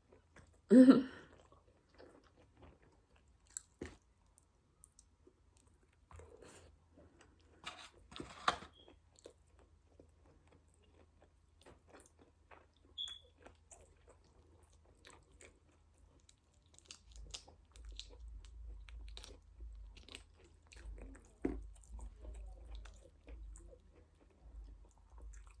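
A person chewing and crunching on chicken close to the microphone, with scattered small clicks. One short, loud sound comes about a second in, and there is a faint low rumble in the second half.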